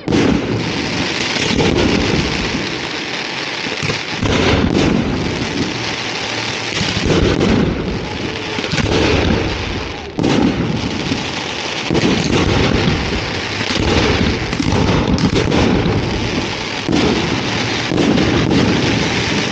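Aerial firework shells launched and bursting overhead in quick succession: a dense, unbroken run of booms and crackling, with louder bangs every second or two, heard close to the launch site.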